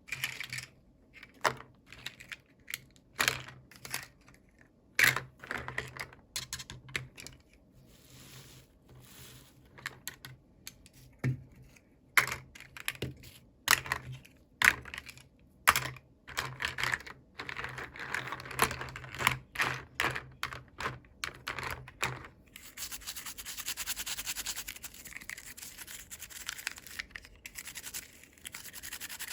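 Hands opening and handling plastic toy packaging: a run of small sharp clicks and taps, then a steady rustle of wrapping from about three quarters of the way in.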